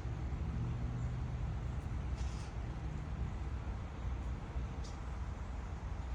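Steady low background rumble, with two faint short rustles about two seconds and five seconds in.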